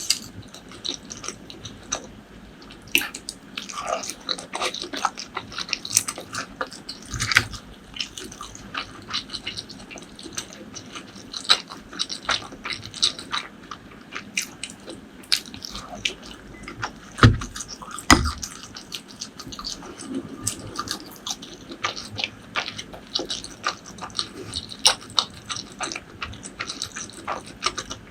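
Close-miked eating: a continuous run of chewing, biting and wet mouth smacks, with a few louder dull thumps, about three in all.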